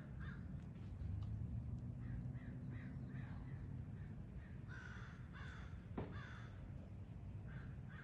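Bird calling: a run of short calls, then three louder, harsh calls a little past the middle, with a sharp click among them, over a steady low background rumble.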